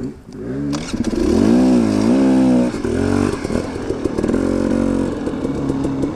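Two-stroke KTM 250 XC-W dirt bike engine being ridden, revving up about half a second in and holding high with a wavering pitch, dropping back near the middle, then running on with short throttle blips near the end.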